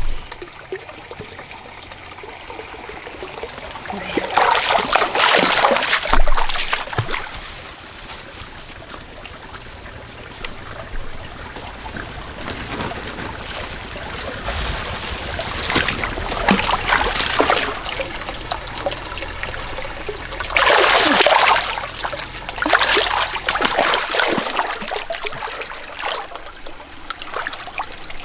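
Muddy water trickling and splashing as it is stirred by hand, with several louder splashes.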